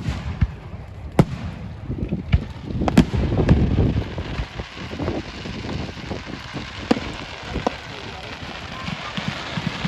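A fireworks display: sharp bangs from bursting shells several times over a continuous crackle and rumble, busiest about three to four seconds in.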